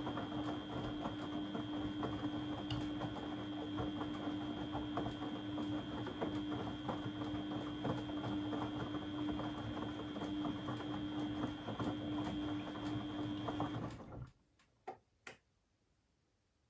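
Beko WMB 71643 PTE washing machine running with a steady hum and a busy crackling, clicking texture. The sound stops abruptly near the end and is followed by a few separate clicks.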